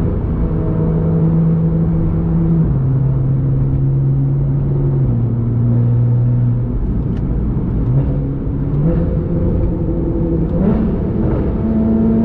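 Porsche 911 Carrera S (991.1) 3.8-litre flat-six running through an Armytrix aftermarket exhaust at highway speed. The engine note holds steady, drops in pitch in two steps in the first few seconds, then climbs again in steps from about eight seconds in as the car accelerates.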